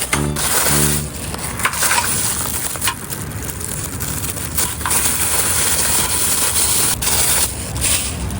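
Continuous crunching and rustling, with many sharp clicks scattered through it.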